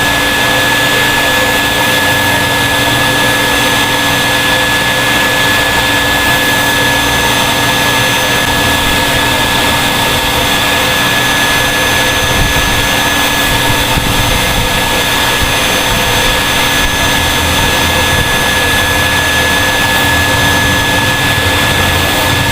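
Vacuum cleaner running steadily, a constant rushing air noise with a steady high-pitched whine from the motor.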